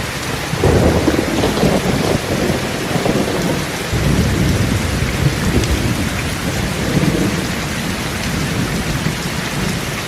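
Steady rain falling, with deep rumbles swelling about half a second in and again around four and seven seconds.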